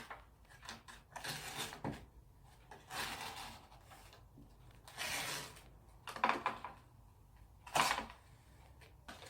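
Handling of an instant-noodle cup and its packaging: several short rustles and sharp clicks.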